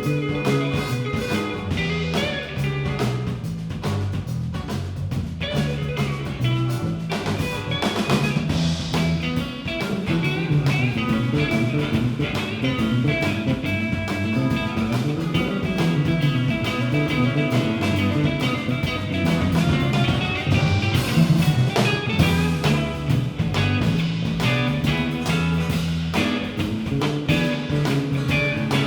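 A rock band playing live: an instrumental stretch of guitar over a steady drum beat, with no singing.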